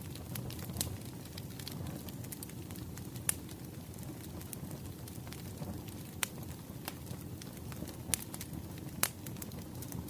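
Crackling wood fire: a steady low rumble of burning logs, with sharp pops and crackles scattered irregularly throughout and a few louder pops.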